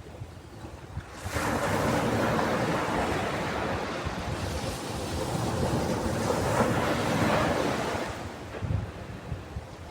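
Ocean waves breaking on a beach: a wash of surf swells up about a second in, holds for several seconds, then falls back near the end.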